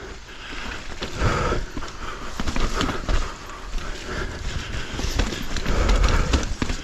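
Mountain bike clattering over rough, wet trail: irregular knocks and rattles from the bike over a steady rolling noise, with a low rumble that swells toward the end.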